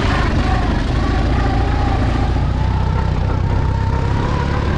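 Off-road vehicle engine running steadily while under way, a heavy low rumble with a thin whine that wavers slightly in pitch.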